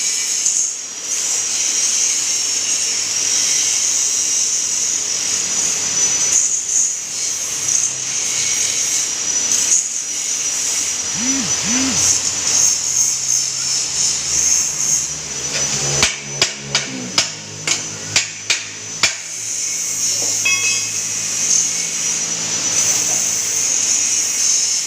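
Motor-driven plate rolling machine running with a steady high whine and hiss, rolling a flat plate. A little past the middle comes a quick run of about seven sharp knocks.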